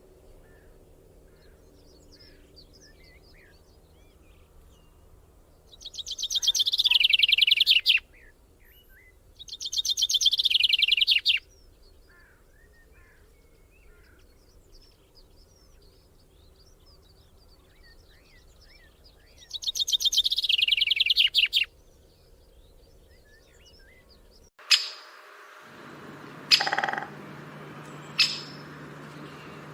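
Birds singing: three loud, rapid trills of about two seconds each, with faint chirps in between. About 25 seconds in, the background turns noisier and a few short, sharp bird calls ring out.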